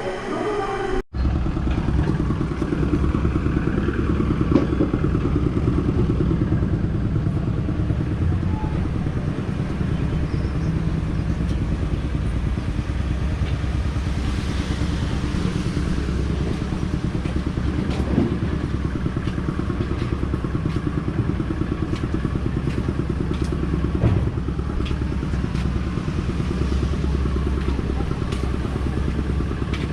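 A small engine running steadily with a low rumble, like a motorbike heard while riding, starting right after a brief dropout about a second in.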